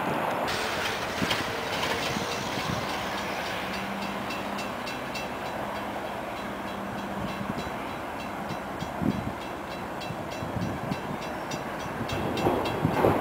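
A CSX freight train's diesel locomotives approach from a distance with a steady rumble. From about four seconds in there is a faint, regular ticking.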